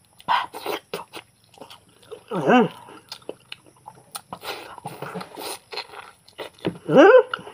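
Mouth sounds of a man biting and chewing braised goat mutton off the leg bone: irregular wet clicks and smacks. Two short voice sounds that slide up and down break in, about two and a half seconds in and again near the end.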